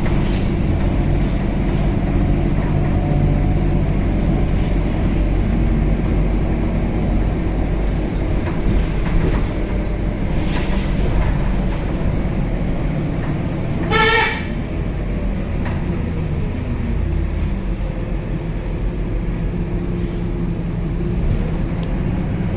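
Scania K270UB city bus's five-cylinder diesel running with a steady drone heard inside the cabin. About 14 seconds in, a sudden short, loud honk-like tone sounds once: the strange, scary sound the uploader puts down to the bus's broken motor.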